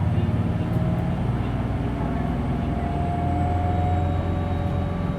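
Hino Blue Ribbon City Hybrid bus running under way, heard from inside the cabin: a steady low drone of the drivetrain, with a faint whine that rises slightly in pitch from about a second and a half in and fades near the end.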